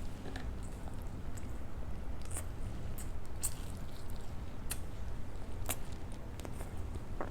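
Close-up chewing of soft idli soaked in sambhar: wet mouth smacks and sharp clicks every second or so, over a steady low hum.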